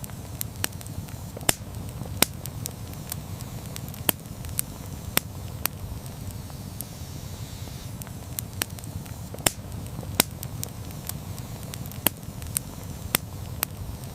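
Campfire burning with irregular crackles and pops, a few sharp loud snaps among them, over a steady low rumble of the flames.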